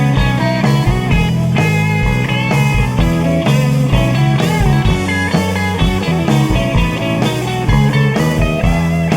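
Rock band playing an instrumental passage with no singing: guitar lines with bending notes over bass guitar and a steady drum beat.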